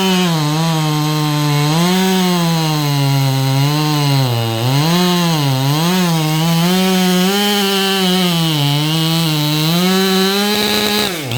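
Chainsaw cutting through a big log round. Its engine pitch dips and recovers again and again as the chain bogs under load. Near the end the throttle is let off and the engine falls away toward idle.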